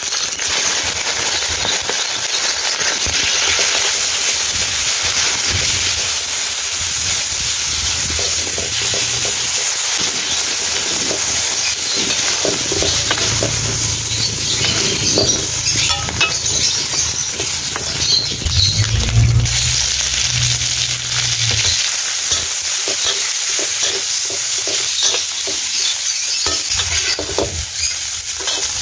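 Diced meat and then shrimp sizzling steadily in hot oil in a steel wok. A metal spatula scrapes and clinks against the pan as the pieces are stirred and scooped out.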